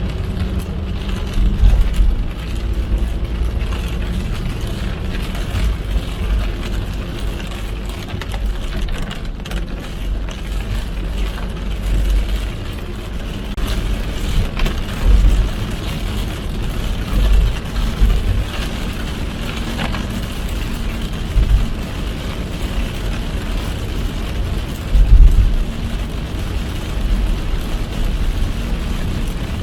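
A car driving in heavy rain: a steady low road and engine rumble with rain and wet tyre hiss over it, and a few louder low thumps.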